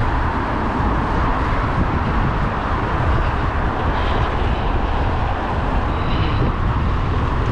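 Wind rushing over the microphone of a GoPro on a moving bicycle, a steady loud rumble and hiss.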